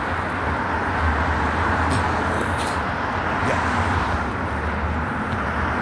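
Steady road traffic noise, an even rushing hum, with a few faint clicks about two seconds in.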